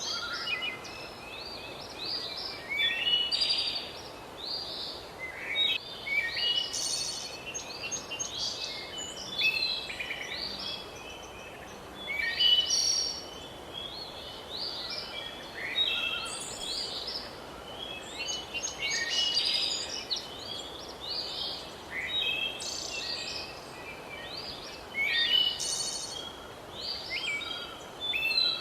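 A chorus of songbirds chirping and warbling, many short calls overlapping, over a steady background hiss of outdoor ambience.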